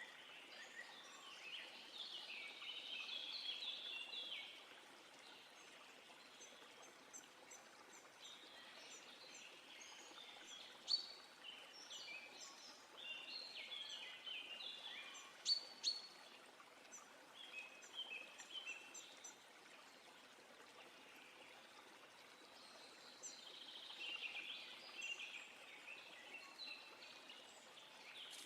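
Small songbirds singing in several bouts of quick, jumbled twittering phrases over a faint steady hiss, with a couple of sharp louder chips near the middle.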